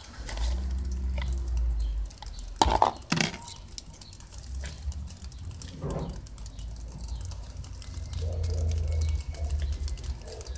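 Fine drizzle pattering with many small drip ticks. Two sharp knocks come about three seconds in, and there are low rumbles from the handheld camera being moved.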